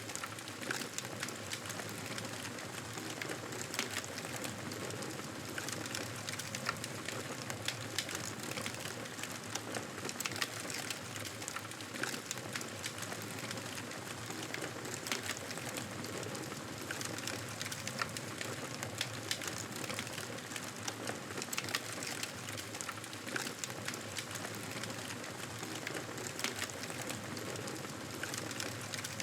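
Fireplace fire crackling steadily: a constant hiss with frequent, irregular sharp pops.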